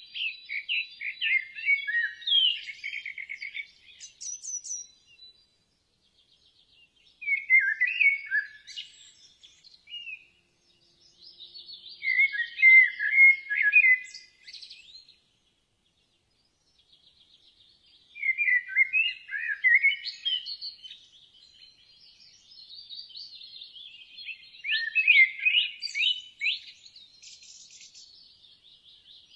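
Songbirds singing in quick, warbling, chirpy phrases of two to five seconds each, separated by short pauses of one to three seconds, all high-pitched.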